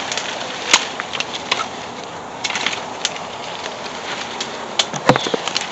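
Footsteps through woodland brush: a few irregular crunches and snaps of twigs and dry debris underfoot, the sharpest about five seconds in, over a steady outdoor hiss.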